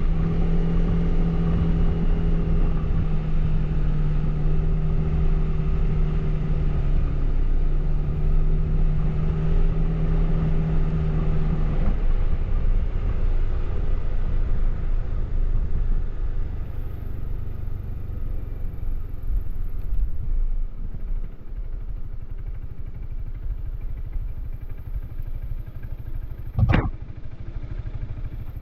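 Suzuki Burgman AN400 maxi-scooter's single-cylinder four-stroke engine, stock exhaust, pulling at a steady pitch with a brief dip, then the throttle closes about twelve seconds in and it drops to a quieter, lower running note. A single sharp click sounds near the end.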